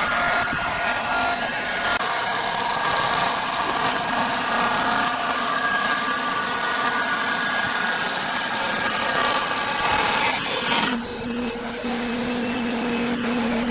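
Woodworking machinery running steadily with a high whine over loud noise. It cuts off abruptly about eleven seconds in, leaving a lower steady hum.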